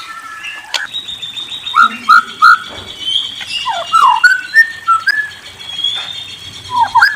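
Birds whistling and trilling, several voices overlapping: three short loud whistled notes about two seconds in, falling slurred notes around the middle and a quick run of chirps near the end, over a thin high steady whistle.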